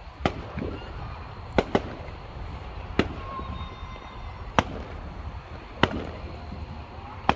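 Fireworks going off around a neighborhood: about seven sharp bangs at uneven intervals, two in quick succession a little after the first, each followed by a brief echo, over a steady low rumble.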